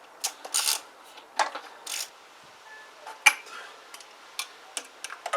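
Sharp metallic clicks and short scraping sounds of hand tools working on a small petrol engine's spark plug, as it is cleaned and refitted.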